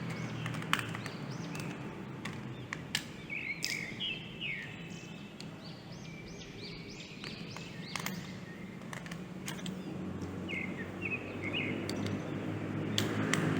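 Birds chirping in short repeated calls over a steady low hum, with a few sharp clicks.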